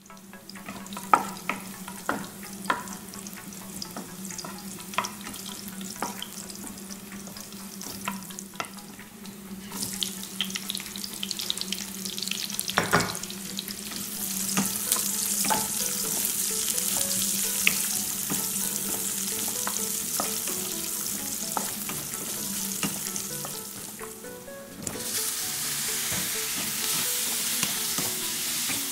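Onions and garlic, then beef cubes, sizzling in hot oil in a wok, with a wooden spatula scraping and knocking against the pan. The sizzle swells about halfway through, dips briefly, then comes back strongly near the end, over a steady low hum.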